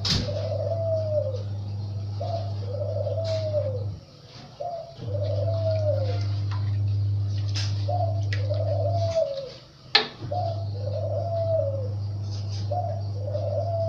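A bird cooing over and over in short arching calls, grouped into bouts with brief pauses between them, over a low steady hum that stops during the pauses. A few sharp clicks, the loudest about ten seconds in, likely a spoon tapping a small jar.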